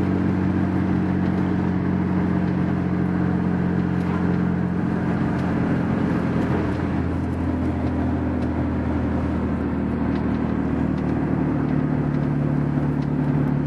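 Turbocharged Acura Integra GSR's 1.8-litre four-cylinder engine running at fairly steady revs, heard from inside the cabin with road and wind noise. Its note changes about halfway through and again near the end.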